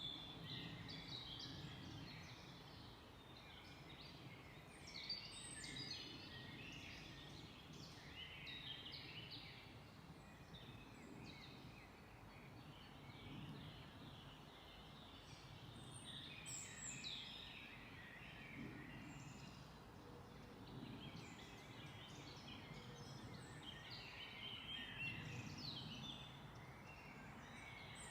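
Several songbirds chirping and singing in quick, overlapping short phrases, over a faint low background rumble.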